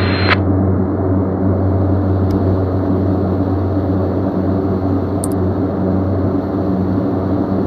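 Steady low mechanical drone with an even hum, holding level and pitch throughout, with two faint clicks.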